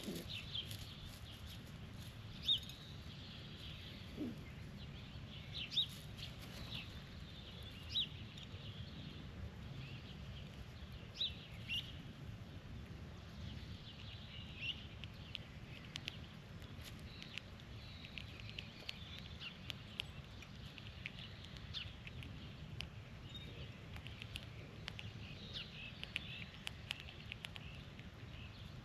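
Birds chirping with short, sharp call notes, several at a time and every second or two, the loudest in the first half, over a steady low background rumble with faint scattered ticks.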